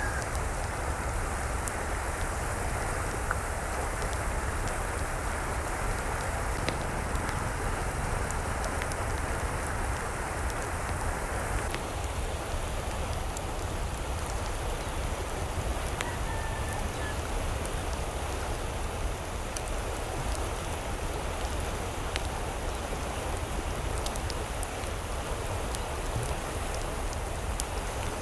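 Steady rain falling, a continuous hiss with many small drop ticks; the tone changes abruptly about twelve seconds in.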